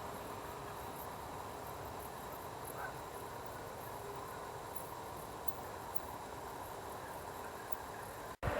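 Faint insect chirping over a steady, quiet background hiss. Near the end the sound drops out for an instant and a louder rumble begins.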